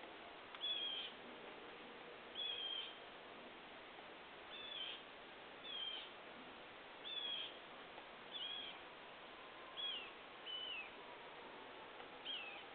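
A bird calling over and over: a short, slightly falling note repeated about nine times, roughly every second or two, over a faint steady hiss.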